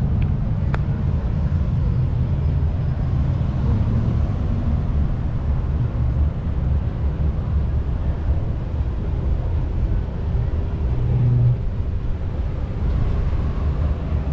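Street ambience heard from a moving bicycle: a steady low rumble of passing traffic and air noise, with one sharp click less than a second in.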